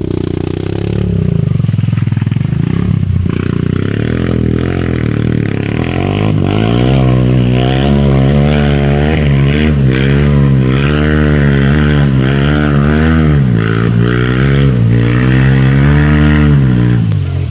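Dirt-bike engine running hard, its pitch rising and falling again and again as the throttle is worked. The revs drop briefly about two-thirds of the way through, pick up again, and fall away at the end.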